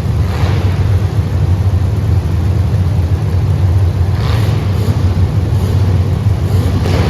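A vehicle engine running steadily with a low rumble that stays even throughout.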